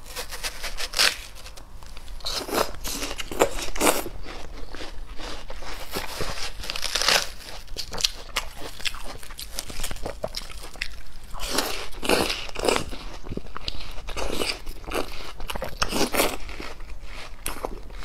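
Watermelon being bitten and chewed close to a clip-on microphone: irregular crunches that come in clusters every few seconds.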